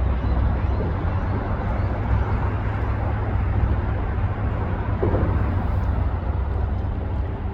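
A passenger ferry underway: its engines give a steady low rumble under a constant rush of wind and water.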